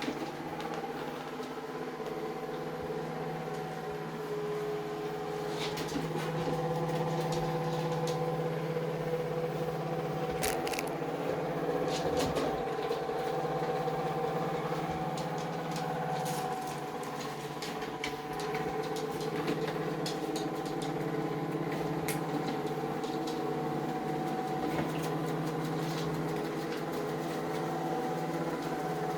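Vacuum cleaner motor running steadily with a hum, with a few light clicks and knocks scattered through it.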